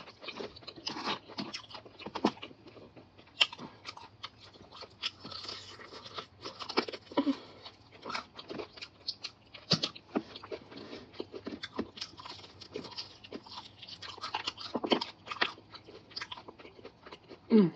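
Close-up crunching bites and chewing of crispy double-fried chicken, with irregular sharp crackles of the crust throughout.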